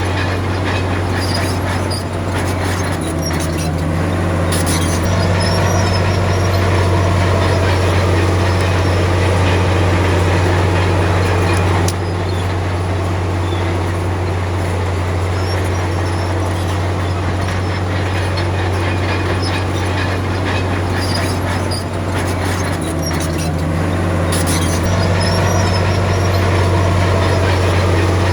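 Komatsu D53P crawler bulldozer's diesel engine running under load, swelling twice as it pushes, with scattered clanks from the steel tracks.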